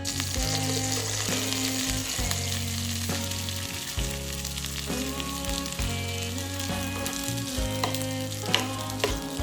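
Food frying in hot oil in a pan: a steady sizzle that starts suddenly, with a few sharp clicks near the end. Soft background music plays along.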